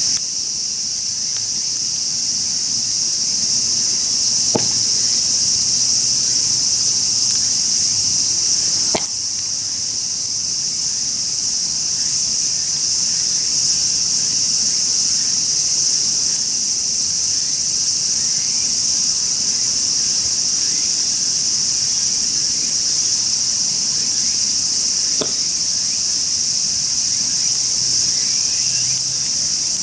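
Steady insect chorus, a continuous high-pitched chirring like crickets, with a few faint clicks.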